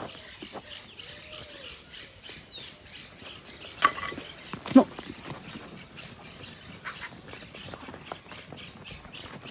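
Birds chirping and calling, with a few low, rounded calls in the first second and a half and two short, louder calls about four and five seconds in.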